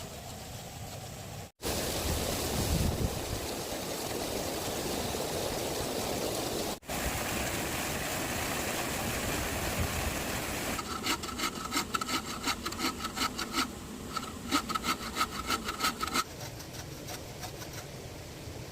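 Hand saw cutting through bamboo: a steady rasping that breaks off briefly twice, then turns into quick, even strokes with a higher note in them for a few seconds before stopping.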